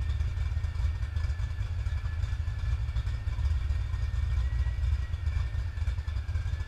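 306 small-block Ford V8 idling with a pulsing low rumble. Over it runs a thin, slightly wavering whistle from a bad vacuum leak: the intake manifold is not tightened down properly.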